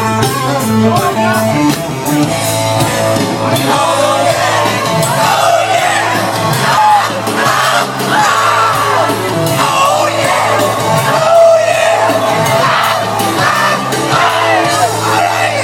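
Rock band playing live, a singer's shouted, wailing vocal over electric guitar, bass and drums, with the echo of a large room.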